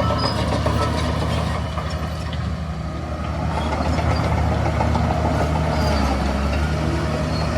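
Heavy diesel engine of construction machinery running steadily, its speed rising a little about four seconds in.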